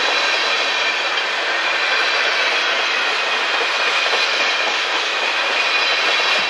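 Railroad tank cars of a freight train rolling past close by: steel wheels running on the rails in a loud, steady rush of noise.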